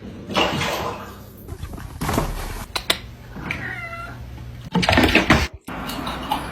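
A cat meowing, one drawn-out meow with a bending pitch about midway, among a few loud rough scuffling noises.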